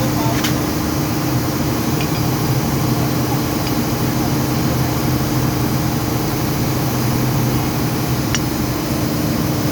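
Steady drone of running machinery with a constant low hum, and a couple of light metallic clicks, about half a second in and again near the end.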